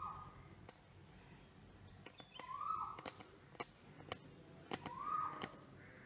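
A bird calling: a short note that rises and then holds, repeated three times about two and a half seconds apart, with faint high chirps and a few sharp clicks between.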